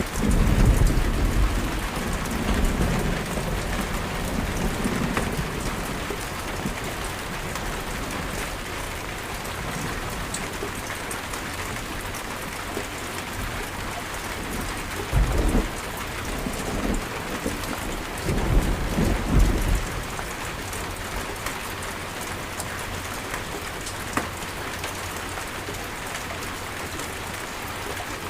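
Steady rainstorm, rain hissing evenly, with thunder rumbling. A long roll of thunder comes at the start, a short low clap about fifteen seconds in, and another rumbling roll a few seconds after that.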